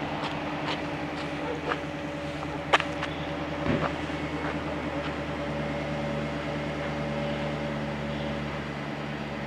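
A motor vehicle engine idling steadily, a low even hum, with a few scattered clicks and one sharp knock a little under three seconds in.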